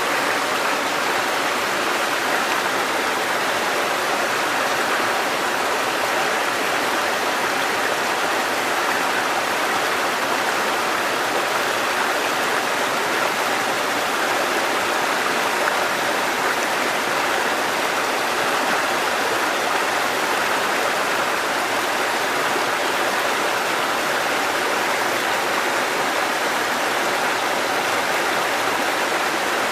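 Mountain stream cascading over rocks: a steady, unbroken rush of water, strongest in the middle and upper range.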